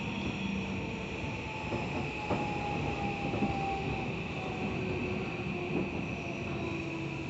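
Tokyo Metro 17000 series electric train running along the track: a steady rumble of wheels on rail with a few separate clicks, and a motor whine that slowly falls in pitch.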